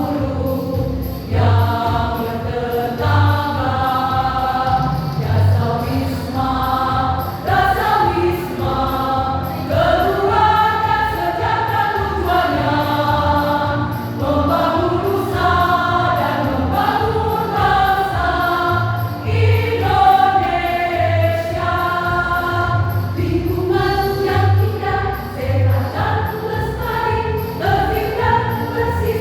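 Choir singing a song together, with a steady low beat of about one pulse a second in the accompaniment under the voices.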